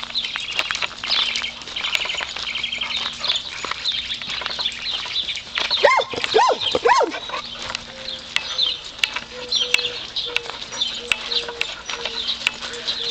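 Small birds chirping rapidly and continuously. About six seconds in there are three short, louder cries that rise and fall in pitch.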